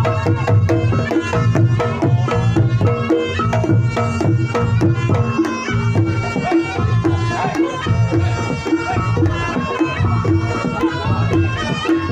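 Reog Ponorogo ensemble playing traditional music: kendang drums keep a steady, driving rhythm under a sustained melody line.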